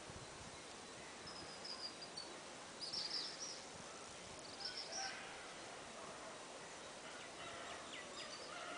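Birds calling in the background: a few short, high chirps and trills, the loudest about three seconds in, over faint steady outdoor noise.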